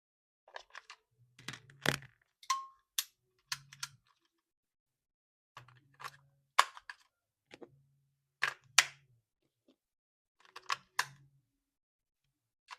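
Small plastic clicks and taps in short clusters with pauses between, from an RC toy and its packaging being handled during unboxing.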